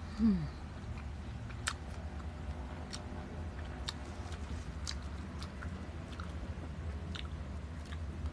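Person chewing crisp peeled green mango with bagoong, with scattered crunches and wet mouth clicks, after a short falling hum of the voice about a third of a second in. A steady low electric-fan hum runs underneath.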